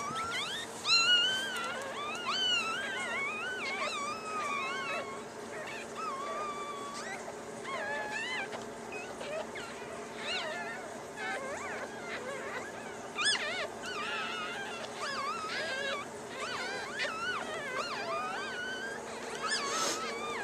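Newborn puppies squealing and crying continuously, many high, wavering cries overlapping, because their mother has been taken away from them. A faint steady hum runs underneath.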